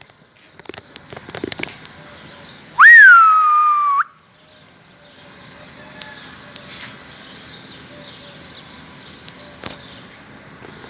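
A person whistles once, a loud whistle of about a second, about three seconds in, that jumps up in pitch and then slides slowly down. It is a pigeon keeper's whistle to his pigeons.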